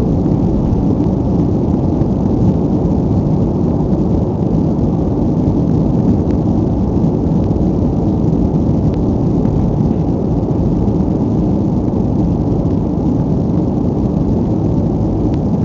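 A BAe 146-300 airliner's four turbofan engines at takeoff power, heard as a steady, loud, deep rumble with no change in level.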